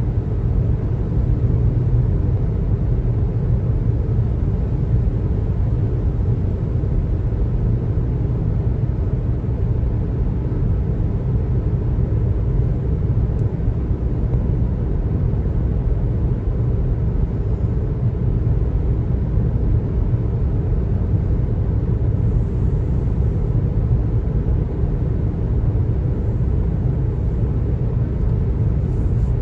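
Car driving at road speed: a steady low rumble of tyres and engine on the pavement.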